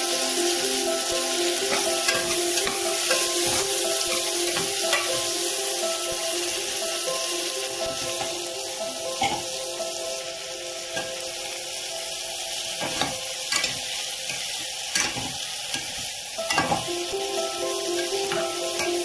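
Vegetables sizzling in hot oil in an aluminium pot, with a metal ladle scraping and clicking against the pot as they are stirred. Sustained background music tones run underneath.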